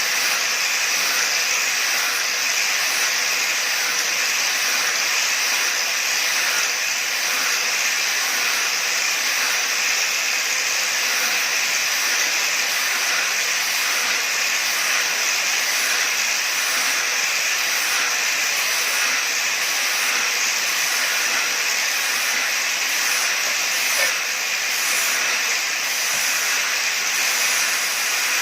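Steady, unbroken hissing noise with a faint hum beneath it and one brief click about 24 seconds in.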